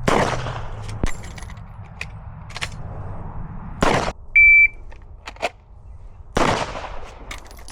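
Three gunshots, each a sharp crack with a short ringing tail, spaced a few seconds apart, with small clicks and knocks between them. A short high beep sounds just after the second shot and is the loudest moment.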